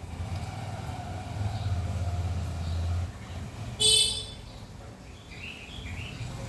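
Outdoor morning ambience: a low engine rumble for about three seconds, then a brief, loud, high-pitched toot just before four seconds in, followed by a few bird chirps.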